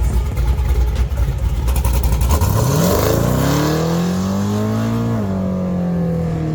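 LS-swapped V8 in a Chevrolet Silverado: a heavy low rumble, then about two and a half seconds in the engine pulls up with its pitch rising steadily for a few seconds, eases off slightly and holds a steady note.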